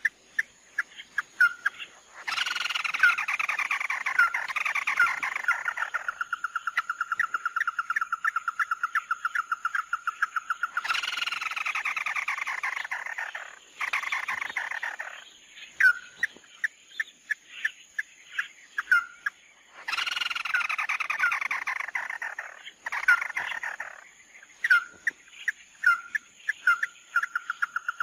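Recorded calls of the bird that Vietnamese bird trappers call 'mắt đỏ', played in a loop: sharp single whistled notes, a fast even trill, and harsh, rasping phrases that fall in pitch. The same sequence repeats about every nine seconds.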